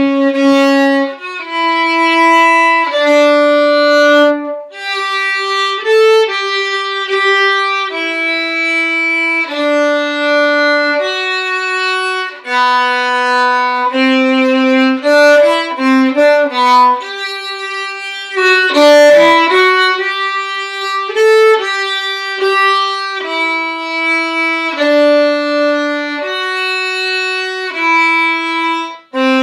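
Violin bowing a single-line melody in mostly held notes about a second long, with a few quick runs of short notes near the middle.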